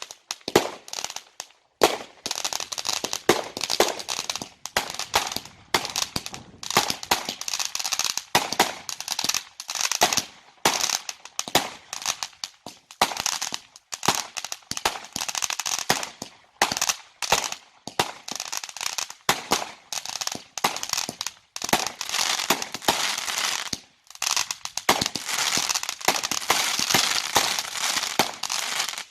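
Fireworks going off in a rapid, dense string of bangs and crackles, with a few short gaps.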